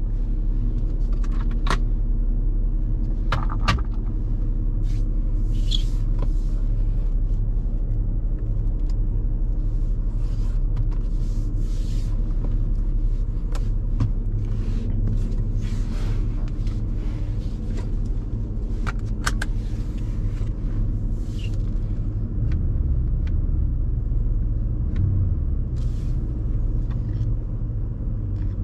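Porsche Panamera Turbo's 4.8-litre twin-turbo V8 running at a steady low pitch, which wavers briefly near the end, with scattered light clicks and knocks throughout.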